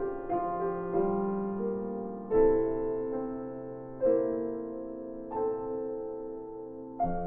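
Background piano music: slow, gentle chords struck about once a second and left to ring out.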